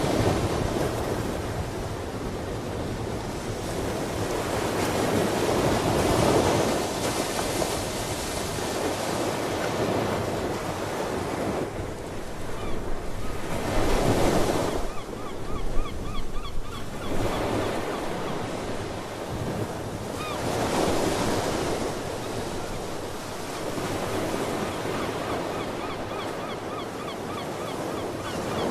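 Ocean surf, with waves breaking and washing in, swelling about every seven to eight seconds. Sea birds call in quick repeated notes in the middle and again near the end.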